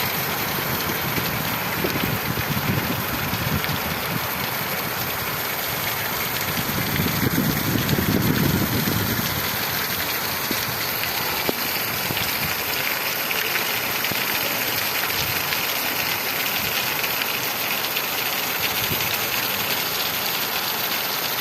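Torrential rain pouring steadily, with a low rumble swelling for a couple of seconds around the middle.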